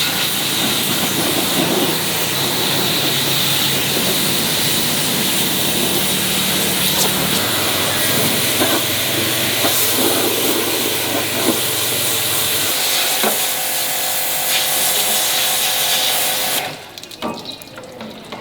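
A steady high-pressure spray hissing, with a low machine hum beneath it that drops away partway through. The spray cuts off abruptly about seventeen seconds in.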